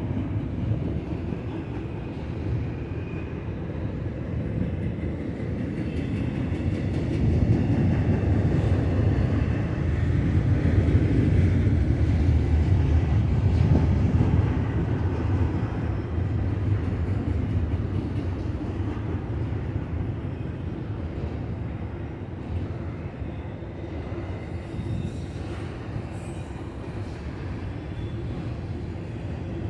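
Double-stack intermodal freight cars rolling slowly past on the rails: a steady rumble of wheels and cars that swells louder around the middle and then eases off.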